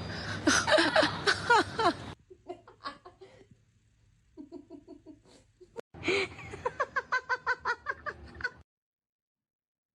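Person laughing hard in repeated bursts, a loud peal at first, quieter spells in the middle, then a fast run of 'ha-ha-ha' pulses that cuts off abruptly near the end.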